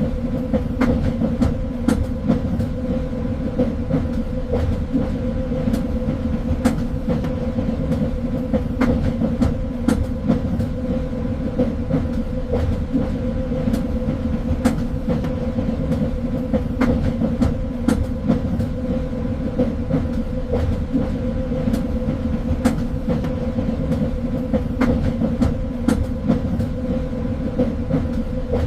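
A train running, heard from on board: a steady low rumble with a constant hum and frequent irregular clicks and rattles from the wheels on the rails.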